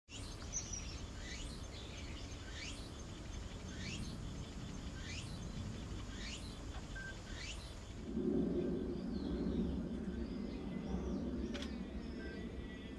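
A wild bird repeating a short, rising, high whistled call about once every 1.2 seconds, six times, over a low steady outdoor hum. About eight seconds in, a louder low rumble comes up, and other birds twitter faintly.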